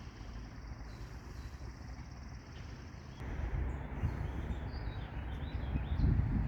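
Outdoor park ambience: a low rumble throughout, growing louder about three seconds in, with faint bird chirps over it.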